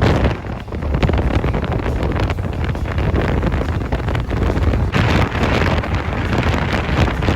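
Wind rushing over and buffeting the microphone of a motorcycle riding at speed, a loud, constant, uneven rumble.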